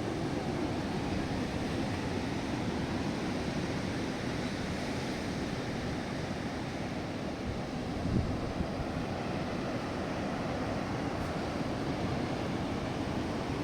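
Strong wind and breaking surf in a steady rush, with wind buffeting the microphone. A brief louder low buffet comes about eight seconds in.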